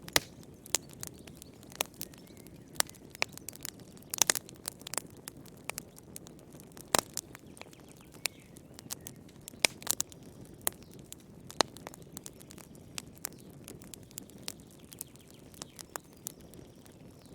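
Wood fire crackling in a fireplace: irregular sharp pops and snaps over a soft low hiss, a few pops much louder than the rest.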